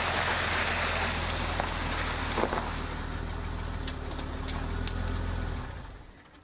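Jeep Cherokee XJ engine running with a steady low hum as the car rolls to a stop on slush, with a hiss at first and a few light clicks. The engine sound ends near the end.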